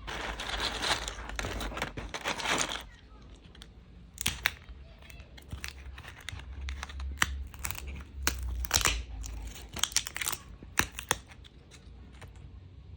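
Packaging being torn open and crinkled: about three seconds of continuous tearing, then scattered crinkles and crackles as it is handled.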